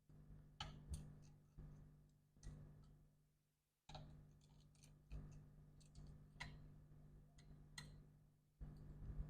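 Faint, irregular small clicks and ticks of a precision Torx screwdriver working the tiny screws out of a MacBook Pro logic board, with parts being handled.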